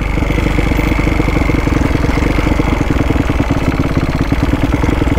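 Kawasaki KX250F dirt bike's single-cylinder four-stroke engine running steadily at an even throttle as the bike is ridden along a rough dirt trail.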